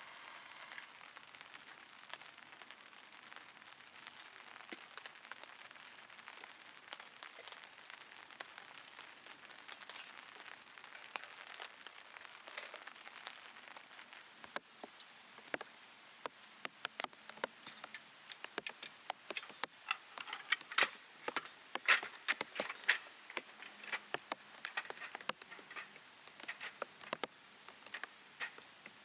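Raindrops tapping on the plastic bag wrapped over the camera in a stream of sharp, separate pops. They are sparse at first and come thicker and louder from about halfway through.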